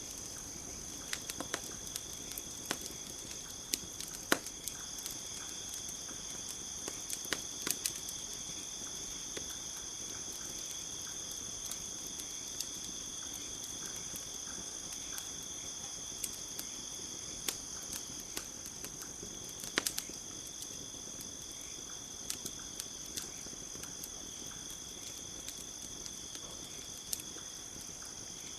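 Campfire crackling with sharp, irregular pops, the loudest about four seconds and twenty seconds in, over a steady high chirring of crickets.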